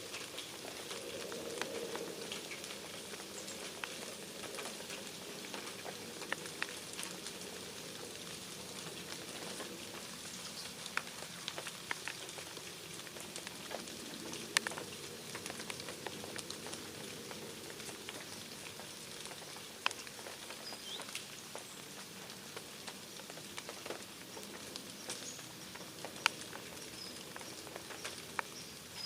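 Birds feeding: scattered sharp pecking ticks over a steady hiss, with a few faint high chirps in the second half.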